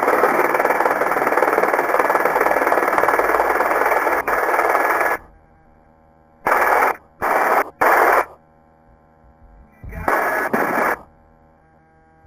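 Helicopter cabin noise heard through the headset intercom: a steady rushing noise that cuts off abruptly about five seconds in, after which the intercom opens only in a few short bursts of the same noise, switching on and off sharply.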